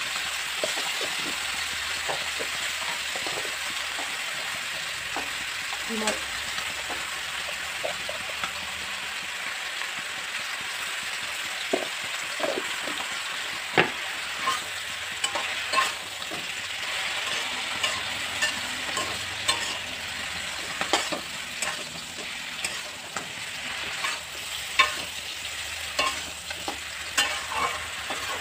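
Sliced mushrooms sizzling as they fry in a karahi, with a steel ladle scraping and knocking against the pan as they are stirred. The knocks come more often in the second half.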